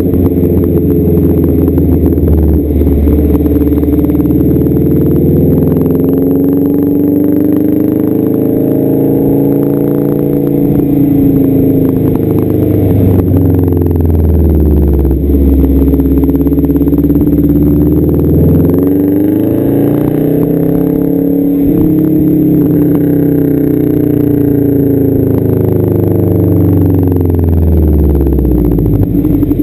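1992 Subaru Legacy's flat-four boxer engine running through a straight-piped exhaust, its engine speed rising and falling several times in slow sweeps, with the sharpest climb about two-thirds of the way through.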